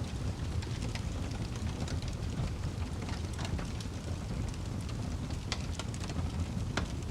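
Wood fire burning in a fireplace: steady low rumble of the flames with irregular sharp crackles and pops, a few louder snaps late on.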